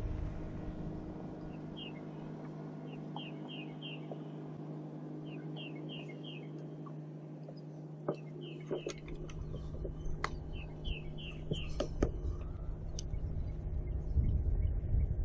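A bird chirping in short quick runs of two to four notes, repeated several times, over a steady low hum. In the second half a low rumble and a few sharp clicks come in.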